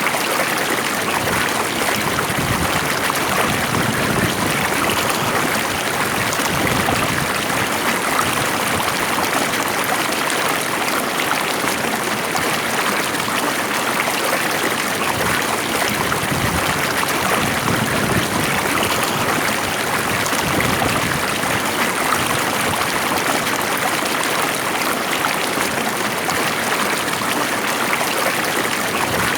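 Stream water flowing and splashing, a steady, even rush with no pauses.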